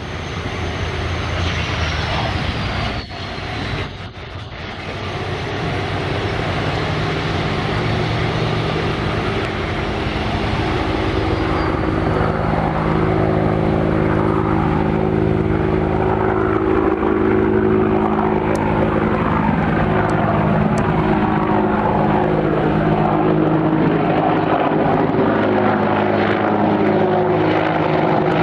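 Boeing AH-64E Apache helicopter flying by. A high turbine whine from its twin turboshaft engines falls in pitch over the first dozen seconds, over steady rotor noise that grows louder in the first few seconds and then holds.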